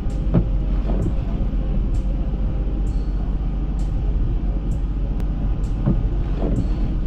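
A vehicle on the move: steady low rumble of road and engine noise, with faint ticks about once a second and two pairs of short thumps, one near the start and one near the end.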